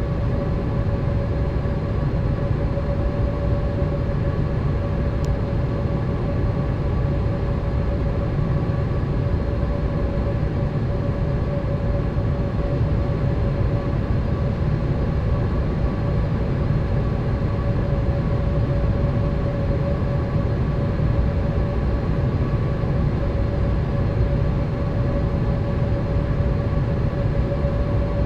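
Boeing 787 cabin noise in flight: a steady low rumble of airflow and engines with an even hum running through it.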